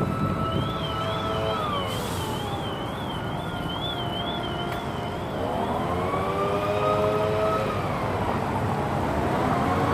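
Emergency vehicle siren wailing, its pitch sweeping slowly down and up every few seconds, with a faster warbling tone over the first half, above steady road traffic noise.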